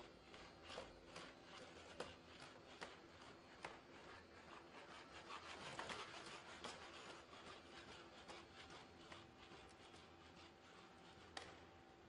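Boston Dynamics SpotMini quadruped robot moving: light, quiet taps, a couple a second, over a faint steady electric hum, with a denser rubbing, scraping noise around the middle.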